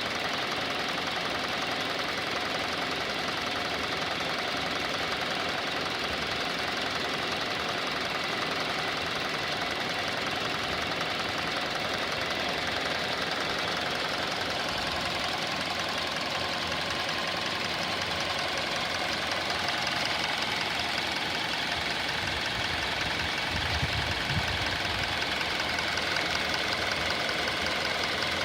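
2019 Hyundai Elantra inline four-cylinder engine idling steadily with a ticking clatter that sounds like a diesel, on an engine with only 7,000 miles.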